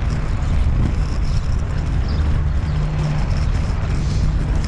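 Inline skate wheels rolling steadily over paving, a continuous low rumble with a noisy hiss above it.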